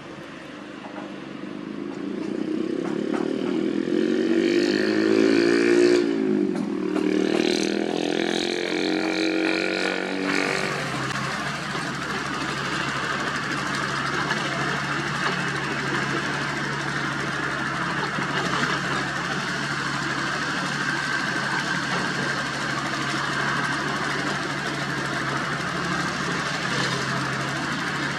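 Diesel engine of heavy construction machinery working, its pitch climbing and wavering under changing load for about the first ten seconds, then settling into a steady, even run.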